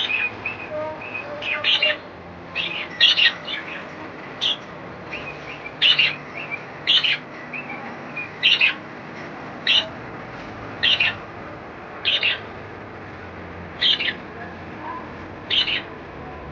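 Pet birds chirping: about a dozen short, sharp, high calls repeated roughly every second or so.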